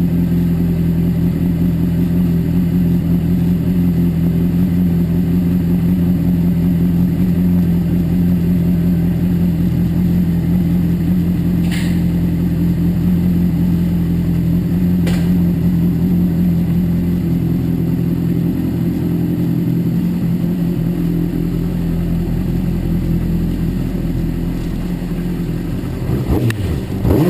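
Honda CBR600RR's inline-four engine running at a steady pitch, then dropping in pitch near the end as the revs fall. Two brief clicks are heard midway.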